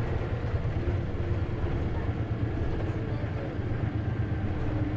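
Inside a Hino KC-LV380N city bus: the diesel engine and drivetrain run with a steady low rumble and faint droning tones above it. This bus is known for an unusual noise, which is thought to be a symptom of its manual transmission.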